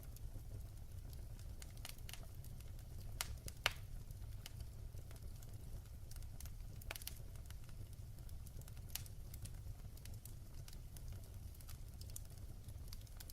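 Wood fire in a fireplace crackling: a steady low rumble of the flames with irregular sharp pops and snaps, one louder pop a little over three seconds in.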